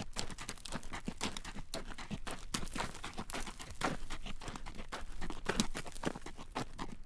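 Horse's hooves clip-clopping on a road at a walk as it draws a carriage: an uneven, continuous run of sharp clacks, several each second.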